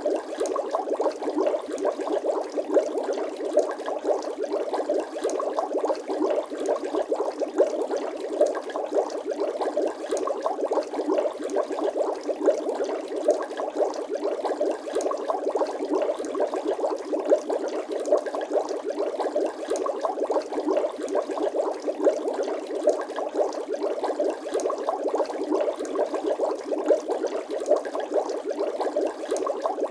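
Bubbling water sound effect: a steady, dense stream of small bubbles popping and gurgling, with no bass.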